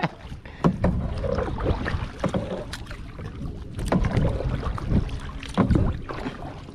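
Kayak moving on open water: irregular splashes and knocks from paddling or hull contact, over a steady rumble of wind on the microphone.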